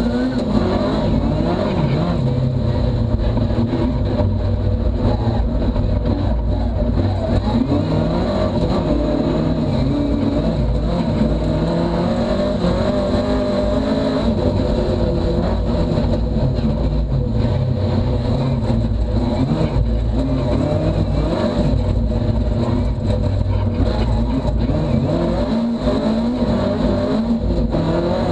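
Ford Fiesta rally car engine heard from inside the cockpit, running hard under acceleration. Its pitch climbs and drops back again and again as the car is driven through the gears and corners.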